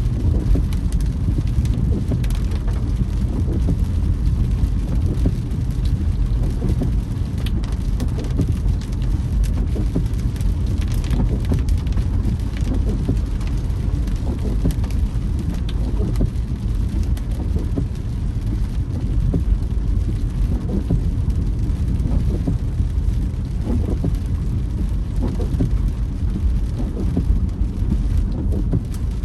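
Rain falling on a moving car, heard over a steady low rumble of road and engine noise.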